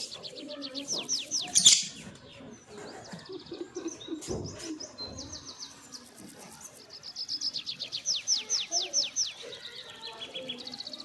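African lovebirds chirping: two runs of rapid, sharp, high chirps, each note sweeping downward, one at the start and another about seven seconds in.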